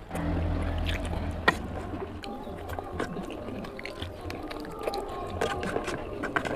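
Wet eating sounds: a person chewing and slurping mouthfuls of oily mutton curry, with many small clicks and smacks. A low steady hum sits under the first second or so.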